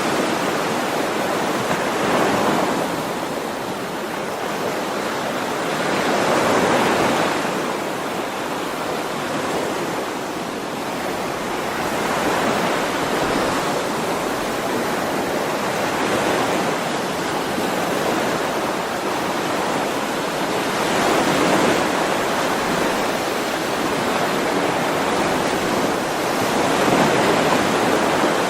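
Ocean waves washing onto a shore: a continuous surf hiss that swells and ebbs every four to six seconds.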